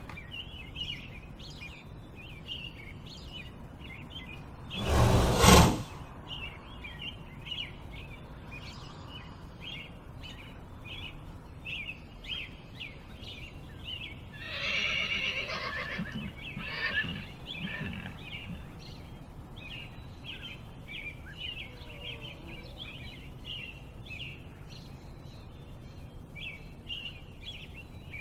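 Horse sounds: one loud, short burst of noise about five seconds in, and a few louder calls around the middle, over steady high chirping that runs throughout.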